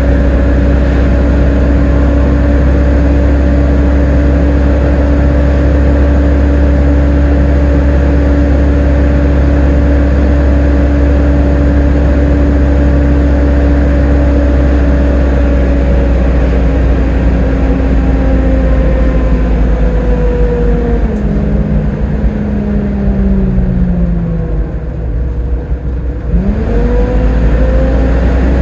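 Volvo B7TL double-decker bus on the move, its drivetrain giving a loud, steady high whine, the vacuum-cleaner-like 'Hoover' whine. From a little past halfway the whine falls steadily in pitch as the bus slows, then near the end it sweeps sharply back up as the bus pulls away again.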